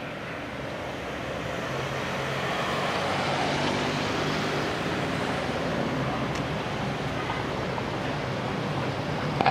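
A motor vehicle's engine running amid street traffic noise, growing louder over the first few seconds and then easing slightly, as a vehicle passes.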